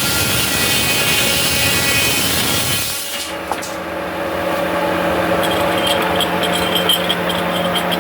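Sawmill saw cutting through wood, a loud noisy whine that gives way abruptly about three seconds in to a steadier hum of the machinery running.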